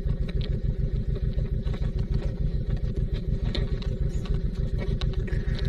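Honda VTX1800C's big V-twin idling with a steady low pulse, with a few faint clicks over it.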